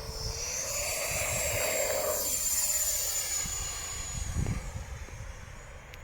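Electric ducted fan model jet whining at full thrust. It rises in pitch, swells to its loudest around the middle, then fades as it flies off.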